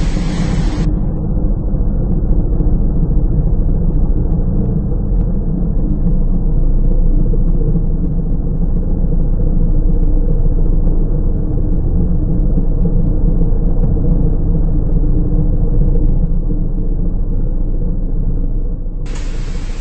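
Automatic car wash machinery heard from inside the car: a loud, steady, deep rumble with a few steady hums over it.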